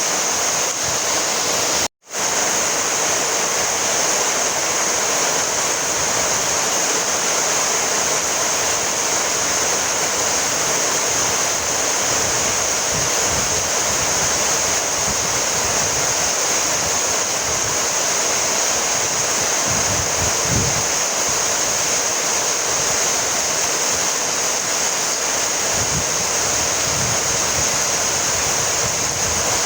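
Steady heavy rainfall, a dense even hiss with no distinct drops standing out. The sound cuts out completely for an instant about two seconds in, then resumes.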